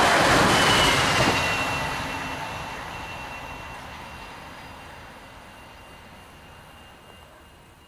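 Bombardier Talent electric multiple unit passing over a level crossing, its rumble loud at first and then fading steadily over several seconds as it moves away. A thin, steady high whine lingers under it.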